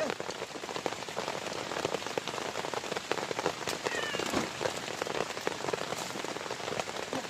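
Heavy rain falling steadily, with many close drops striking a surface.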